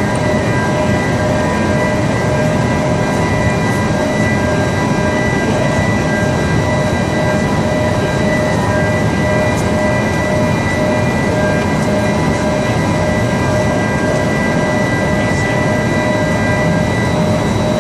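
Industrial aluminum melting furnace running: a loud, steady roar with several constant whining tones over it, unchanging throughout.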